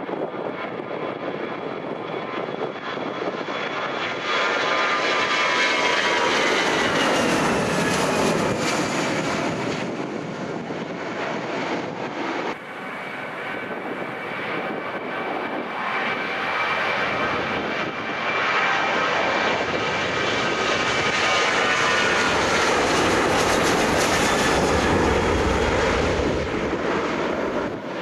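Airliner engines passing close by, twice in turn: a loud rushing engine noise with a high whine that falls in pitch as each aircraft goes past. The sound changes abruptly about twelve seconds in, between the two passes.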